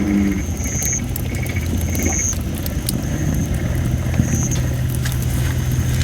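Campfire of thin, under-dried red robin (Photinia) wood: a steady thin hiss of steam from the damp wood that swells in short pulses, with scattered crackles and pops, one louder pop a little past the middle. A steady low hum runs underneath.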